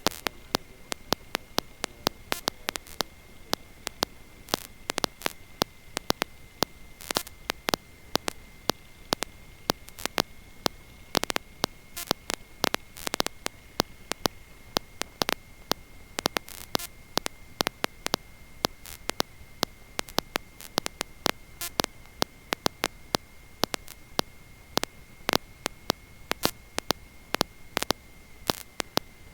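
Electrical static on the recorded audio line: irregular sharp crackling clicks, several a second, over a steady high-pitched whine and a low hiss. The biplane's engine is hardly heard.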